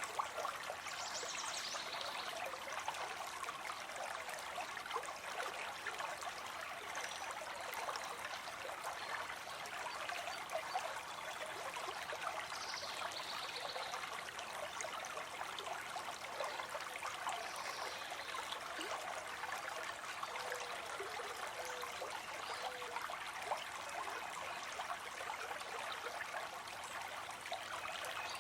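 Stream water flowing and trickling steadily, with an even, unbroken rush of water noise.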